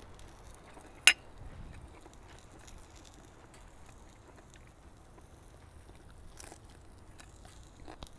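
A person eating: faint chewing with scattered small clicks, and one sharp, loud click about a second in.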